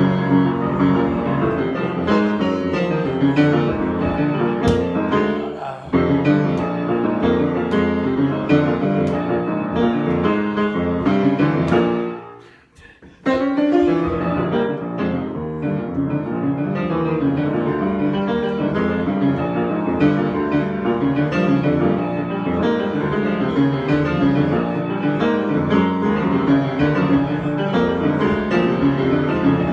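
Solo piano improvisation, played continuously, with one brief pause a little before halfway before the playing resumes.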